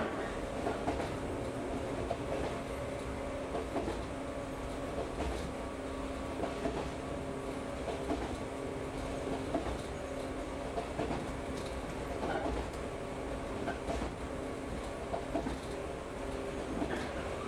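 Shinano Railway Kita-Shinano Line local train running, heard from inside the car: a steady rumble of wheels on the rails with a constant hum and occasional clicks.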